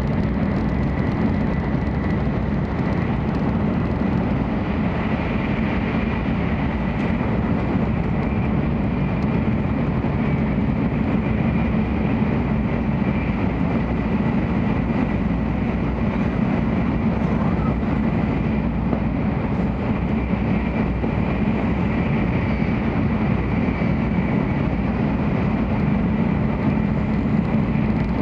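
Steady interior running noise of a 700 series Shinkansen at speed, heard from inside a passenger car: an even rumble and rush from wheels and air, with a faint steady high whine.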